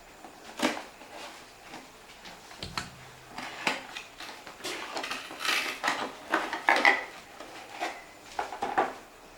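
Hard plastic parts and packaging being handled: an irregular string of clicks, taps and light rattles.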